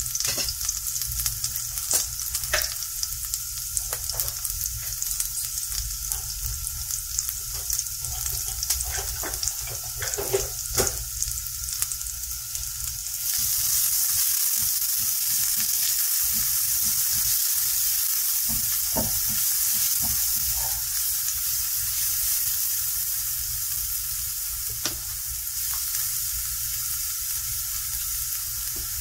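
Chopped onions, garlic and jalapeños sizzling in butter in a nonstick skillet, with scattered crackles. About thirteen seconds in the sizzle gets louder as a wooden spatula stirs and spreads them across the pan, with light scrapes and knocks.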